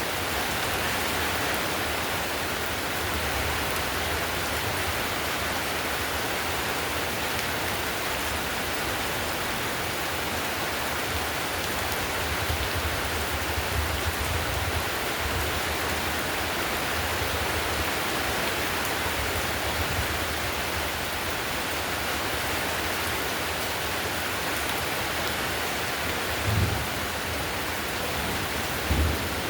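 Heavy rain falling steadily on a tiled roof, an even hiss of drops. Near the end, two short low rumbles of thunder.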